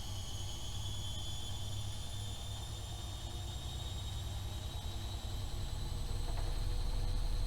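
AEG Öko-Lavamat 76730 washing machine with its drum motor speeding up: a whine slowly rising in pitch over a pulsing low rumble, getting louder about six seconds in.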